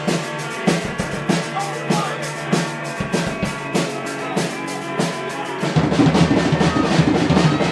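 Live rock band playing: a drum kit beats steadily, about three strikes every two seconds, under a held bass note. About six seconds in, the playing turns louder and busier.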